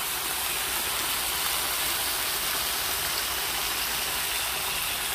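Tilapia fillets sizzling steadily in hot oil in a frying pan, an even, hissing frying sound.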